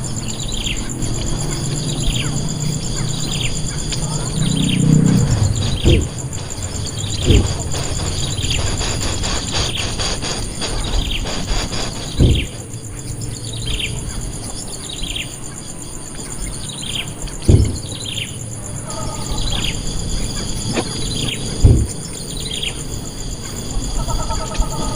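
A bird repeating a short, falling call roughly once a second, over a steady high-pitched insect drone. Several dull thumps break in, about six seconds in and again around 7, 12, 17 and 22 seconds.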